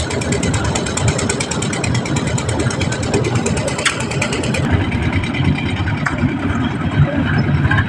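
Swaraj 735 tractor's three-cylinder diesel engine running steadily with a fast, even clatter.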